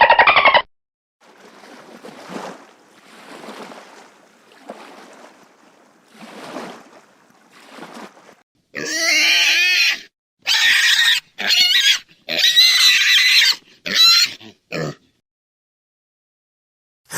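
Pig grunting softly in short, regular grunts, then breaking into a run of loud, high-pitched squeals about nine seconds in.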